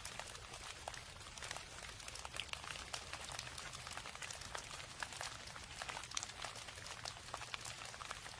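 Steady rain, with many small drops pattering irregularly over a constant hiss.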